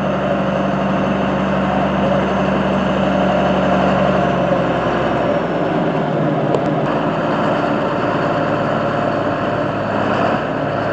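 John Deere 4055 tractor's six-cylinder diesel engine idling steadily, its note changing about halfway through, with a single sharp click a little later.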